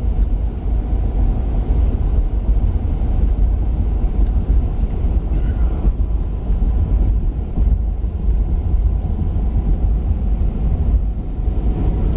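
Steady low rumble of road and engine noise inside a Ford Super Duty pickup's cab while it cruises along a road.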